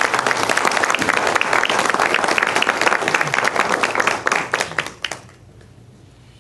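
Congregation applauding, dense clapping that tapers off and stops about five seconds in.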